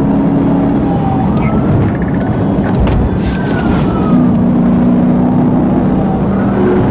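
Police car driving at speed with its siren wailing in slow rising and falling sweeps over loud road and engine noise.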